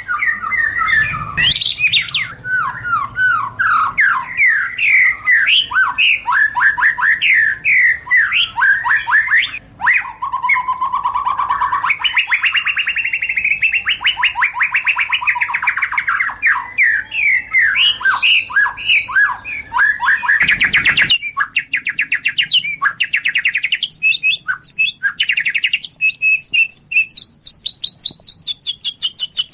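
White-rumped shama (murai batu) singing without a break: a fast, varied stream of whistles, chirps and trills. Longer, steadier whistled phrases come about a third of the way through, and there is one short harsh note about two-thirds of the way in.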